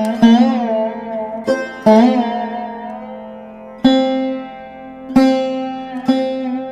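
Background music played on a plucked string instrument: single notes plucked every second or so, each ringing out and fading, some bent in pitch after the pluck.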